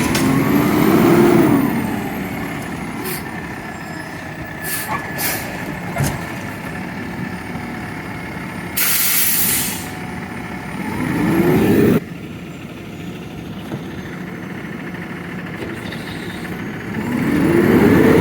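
Garbage truck's diesel engine revving up and falling back three times, with a short hiss of air, like an air brake, about nine seconds in.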